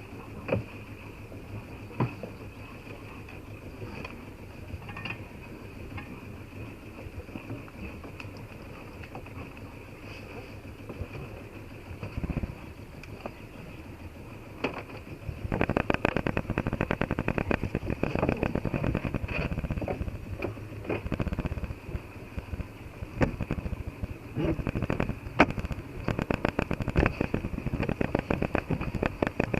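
Sailboat's engine running steadily while motoring in a calm, with a low hum. About halfway through, a louder dense crackling joins it.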